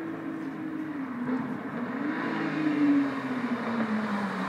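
Porsche 911 GT3 RS flat-six passing by. Its engine note rises, is loudest about three seconds in, then falls in pitch as the car goes away.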